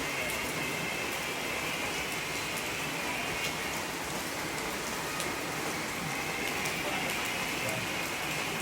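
Rain falling inside a limestone cave: a steady patter with scattered single drops ticking through it.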